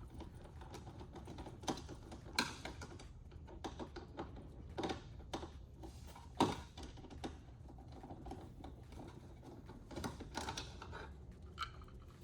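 Irregular light clicks and taps of hand tools working the Torx bolts and plastic trim of a van's interior door panel, over a low steady hum.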